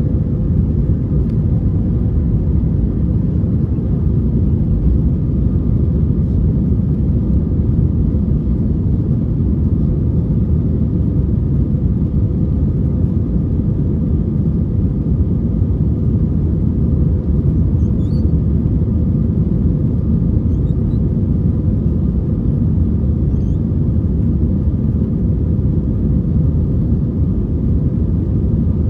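Steady, loud rumble of an Airbus A321's engines and airflow, with a faint steady hum running through it.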